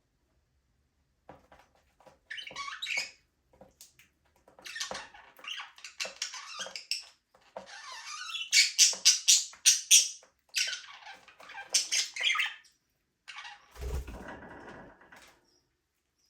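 Budgerigars chirping and chattering in short high squeaky bursts, loudest in a quick run of chirps midway. A brief low rustle comes near the end.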